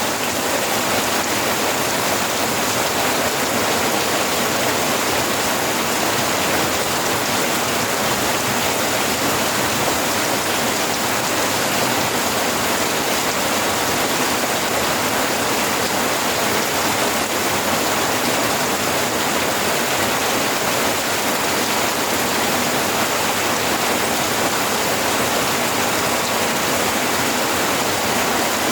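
Steady rainfall, a constant even hiss of many drops with no let-up.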